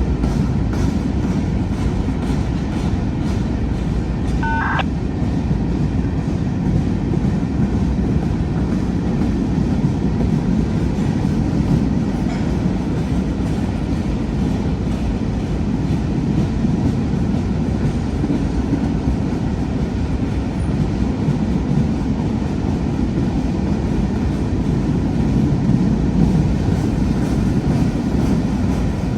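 Providence and Worcester freight train rolling steadily past, a continuous low rumble that holds level throughout, with a brief high chirp about four to five seconds in.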